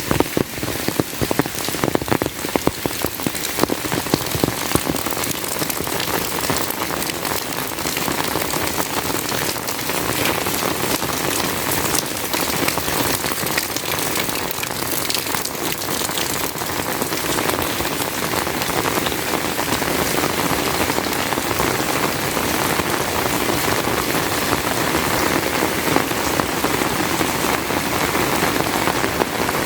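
Heavy rain falling steadily, a dense patter of drops, with sharper individual drop hits in the first few seconds.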